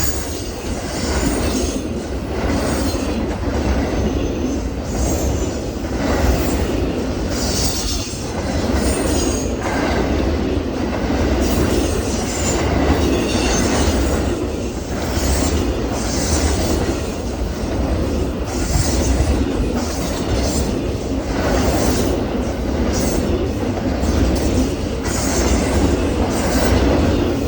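Long Amtrak train's cars rolling past at speed: a steady rumble of wheels on rail with clatter over the rail joints and some high wheel squeal.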